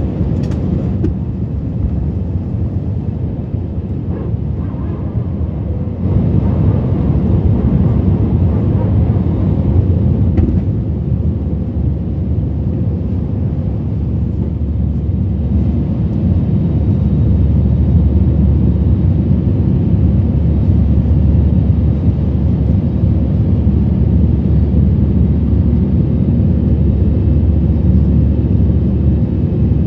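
Steady rumble of an airliner in flight, heard inside the cabin: engine and airflow noise, mostly low-pitched. It grows louder about six seconds in and holds there.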